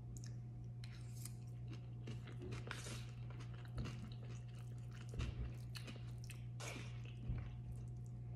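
Close-miked chewing of a forkful of rice bowl with chicken and vegetables: wet, crackly mouth sounds with bits of crunch. A few dull knocks, about three, come from the plastic fork in the paper bowl.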